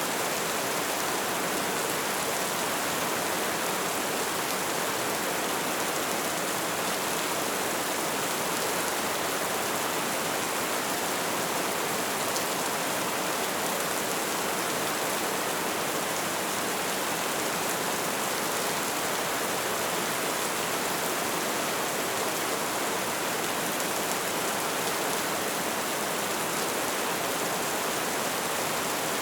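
Light rain falling steadily as an even hiss, with faint scattered drop ticks.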